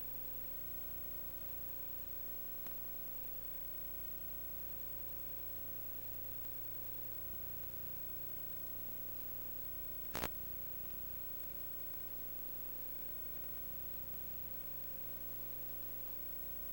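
Steady electrical hum and hiss, with a single sharp click about ten seconds in.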